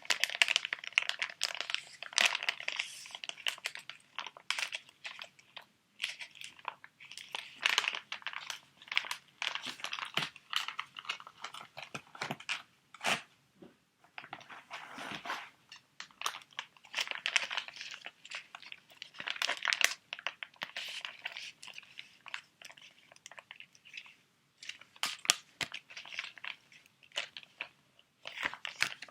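Close-up crinkling and crackling of plastic sheet-mask packets being handled, in irregular bursts of a few seconds with short pauses between them.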